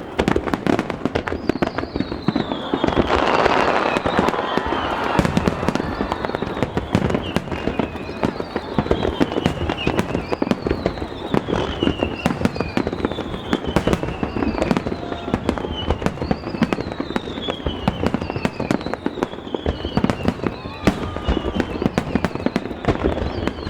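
Fireworks display: a rapid, continuous barrage of shell bursts and bangs, densest about three seconds in. Through it, a high whistle falling in pitch repeats about every second and a half.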